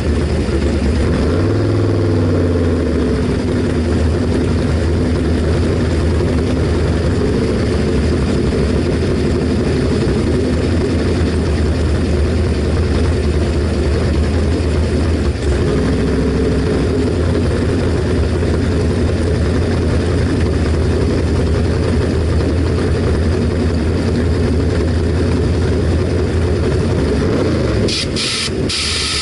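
Drag car engine running at a steady idle, with a brief dip and rise in pitch about two seconds in. A harsh crackling noise comes in near the end.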